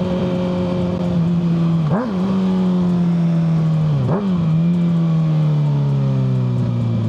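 Kawasaki ZX-6R 636 inline-four running through a Yoshimura full exhaust as the bike slows, the engine note falling steadily. The revs jump up sharply twice, about two seconds in and about four seconds in, like downshifts.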